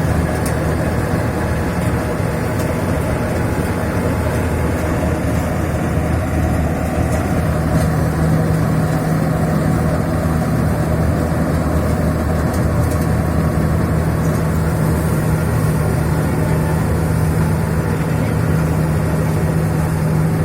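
Engine of a four-wheel combine harvester running steadily while cutting paddy, with a change in its tone about eight seconds in.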